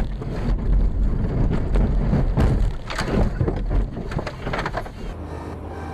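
Vehicle noise with heavy low rumble and wind buffeting, broken by a series of knocks and bangs, then settling to a steadier low hum about five seconds in.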